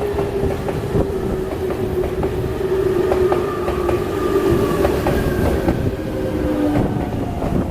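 Electric commuter train passing close by over a level crossing, wheels knocking over rail joints under a constant rumble. A steady whine slowly falls in pitch across the pass.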